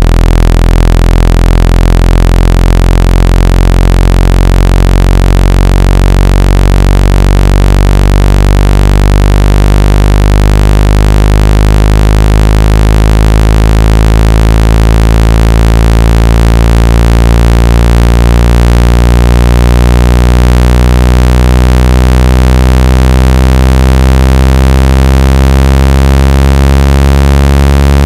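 Loud, steady, deep buzzing electronic tone: a synthesized water-ejection sound, played through a phone or earphone speaker so the vibration shakes trapped water out.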